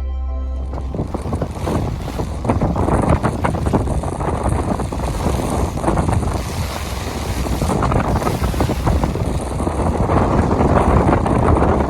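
Wind buffeting the microphone aboard a moving sailing yacht, gusting irregularly over the rush of water along the hull. The tail of the intro music fades out in the first half second.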